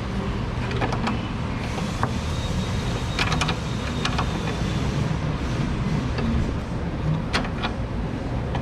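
A few light metallic clicks from pliers turning a bolt by hand, over a steady low hum.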